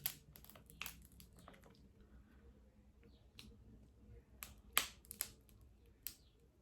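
Crab leg shell being bent and cracked by hand: a few sharp, crisp snaps and clicks spread out, the loudest about three-quarters of the way through. The shell is tough and is not giving way.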